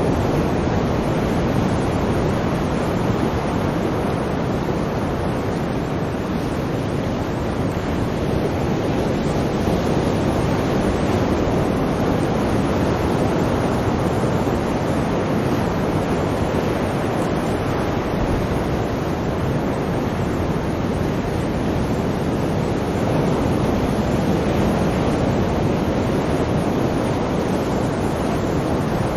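Sea waves washing in, a steady rushing noise with slow, slight swells in loudness.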